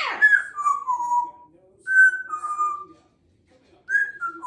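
African grey parrot whistling: three short whistles, each stepping or sliding down in pitch, with pauses between them.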